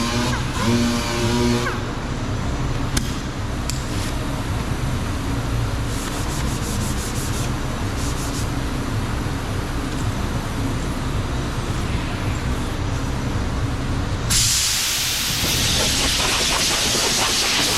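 A low, steady shop rumble with a few clicks. About fourteen seconds in, a loud hiss of compressed air from an air tool starts suddenly and keeps going.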